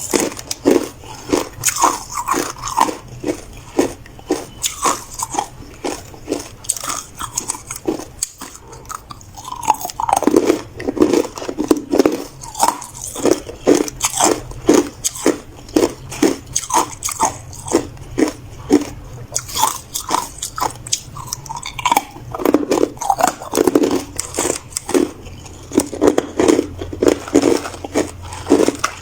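A person biting and chewing hard ice close to the microphone: a dense, irregular run of sharp crunches, a few each second.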